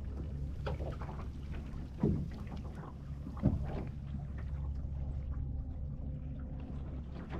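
Sailing dinghy underway: steady wind and water rumble with small splashes against the hull, and two sharp knocks about two and three and a half seconds in.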